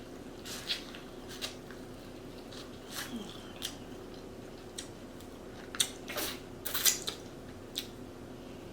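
Close-miked eating of a shrimp and corn seafood boil in butter sauce: wet chewing, lip smacks and sticky squelches in irregular bursts, the loudest cluster about six to seven seconds in, over a faint steady hum.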